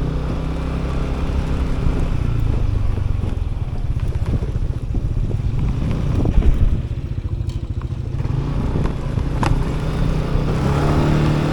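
Motorcycle engine running in street traffic, steady throughout, with a few short clicks.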